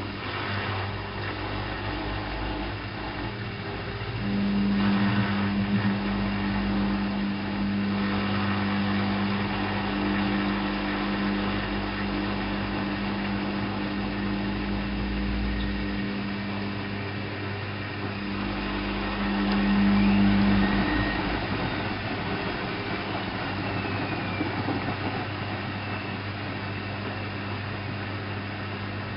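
Alaska WA8200 E washing machine running: a steady mechanical hum, with a stronger steady tone that comes in about four seconds in and stops around twenty seconds in, over a low rumble that comes and goes.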